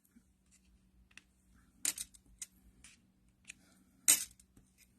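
A medical alert bracelet banging in a series of sharp clicks and knocks, the two loudest about two seconds in and about four seconds in.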